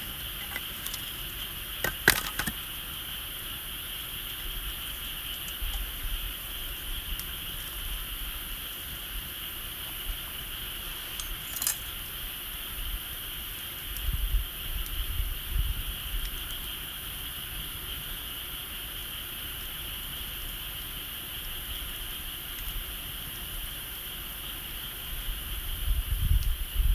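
Wood fire crackling, with a few sharp pops, the loudest about two seconds in, over a steady high-pitched background drone. Brief low rumbles from wind on the microphone come around halfway and near the end.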